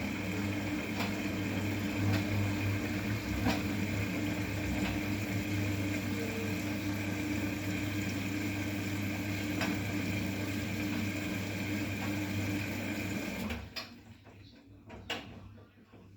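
Bosch WGA 2520TR washing machine running with a steady mechanical hum and a few faint steady tones, which cuts off abruptly about 13 seconds in.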